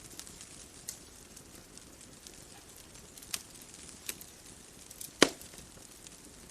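Wood bonfire crackling: a few scattered sharp pops, the loudest about five seconds in, over a faint steady hiss.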